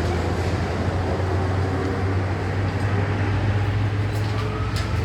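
A steady low engine rumble under an even noisy hiss, with a few faint clicks near the end.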